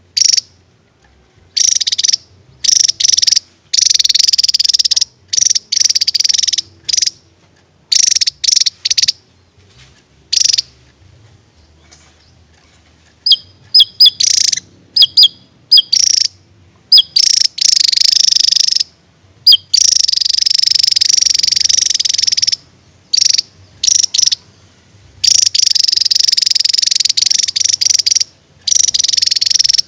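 Javan tesia singing in loud, high-pitched rapid bursts. Some bursts run for several seconds, others are short sharp notes, with brief silences between them.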